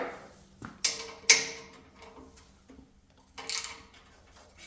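Hand tools clinking and knocking against the band saw's metal frame during bolt removal. There are two sharp clinks with a short ring about a second in, a few light ticks, then a brief clatter a little past three seconds.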